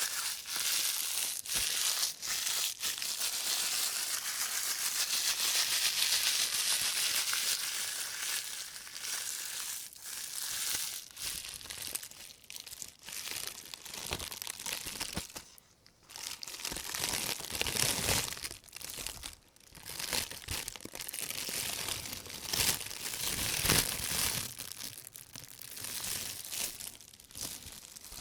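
Thin white plastic carrier bag crinkling and rustling as rubber-gloved hands rub and crumple it, recorded binaurally. The crinkling is continuous, with two short pauses past the middle.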